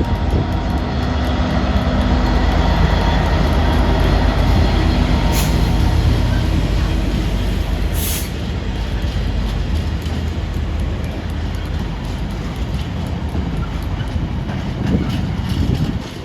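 A train running past, a loud steady rumble with a deep engine drone that builds over the first few seconds and then slowly eases. There are two short high hisses, about five and eight seconds in.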